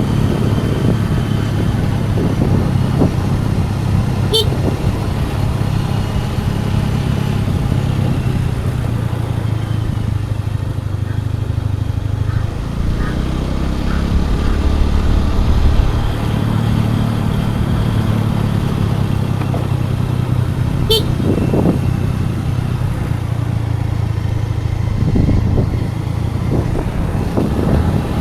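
Scooter engine running steadily under way, with road and wind noise; its pitch shifts a little about halfway through. A couple of brief sharp sounds stand out, one early and one about three-quarters of the way in.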